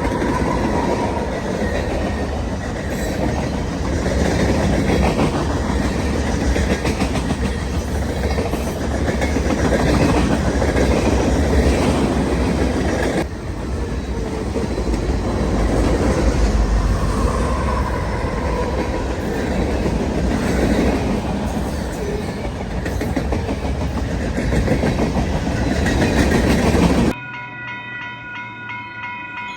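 A train passing, its cars and wheels rumbling and clacking over the rails in a steady, loud wash of noise. Near the end the sound cuts off suddenly to a quieter held chord of several steady tones.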